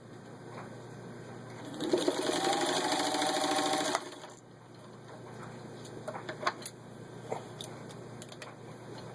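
Singer 15-91 sewing machine with its gear-driven potted motor running at speed, stitching through four layers of vinyl upholstery, for about two seconds before stopping suddenly. A few light clicks follow.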